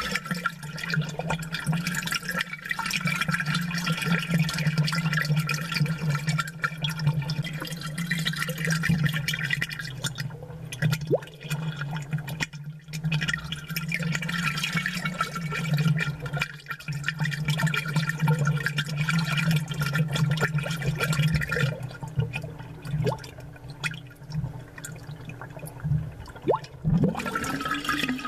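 Aquarium water bubbling and trickling, heard close and amplified, over a steady low hum. The bubbling is made up of many small pops and eases off for a few seconds near the end.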